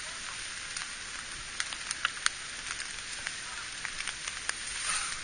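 Steady rain hissing, with scattered sharp taps of single drops landing close by.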